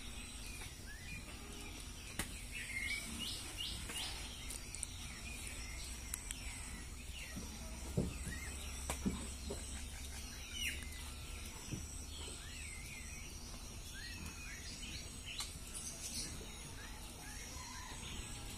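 Birds chirping with short, scattered calls over a faint, steady low rumble, with a soft knock about eight seconds in and another a second later.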